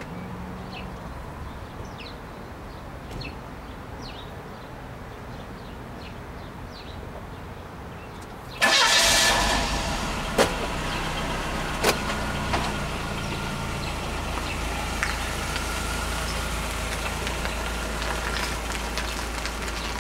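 Quiet outdoor ambience with faint chirps, then a car engine starts suddenly about a third of the way in and keeps running with a steady low rumble, with a few sharp clicks, as the car pulls away.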